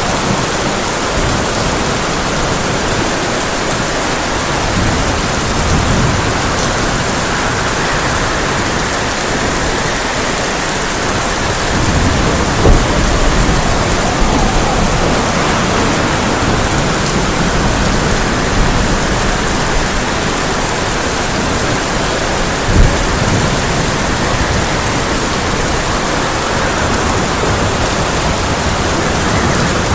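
Heavy rain falling on a tin roof, a steady hiss, with low rumbles of thunder. Two sharp cracks come about halfway and about three-quarters of the way through.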